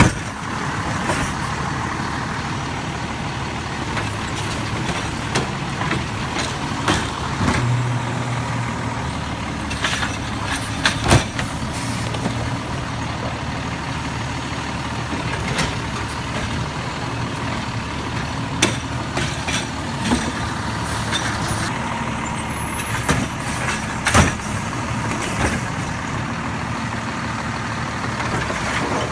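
Garbage truck engine running steadily, with occasional sharp clanks and knocks, the loudest about a third of the way in and again near the end.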